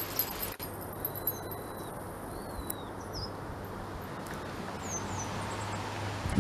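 Small songbirds chirping: short, high calls that slide downward in pitch, repeated every second or so, over a steady low hum.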